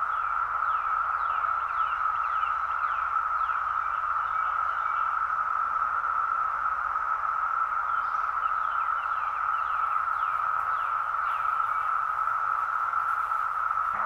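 Dense chorus of Brood X periodical cicadas: one steady, unbroken drone, with many short falling chirps sounding above it.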